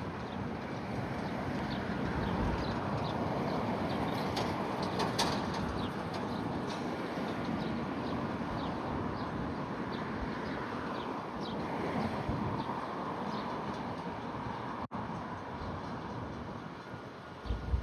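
Small birds chirping again and again over a steady outdoor background rumble.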